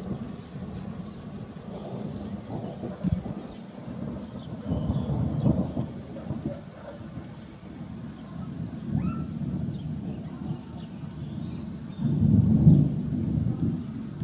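Distant thunder rumbling on and off, swelling loudest near the end, as a storm builds before rain. Over it, an insect chirps steadily, about three times a second.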